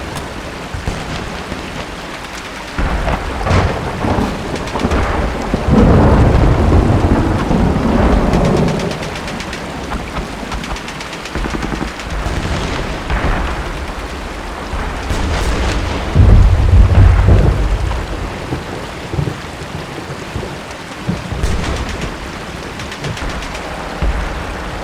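Steady rain falling, with two long rolls of thunder, the first building about six seconds in and the second about sixteen seconds in. Several short sharp cracks are scattered between them.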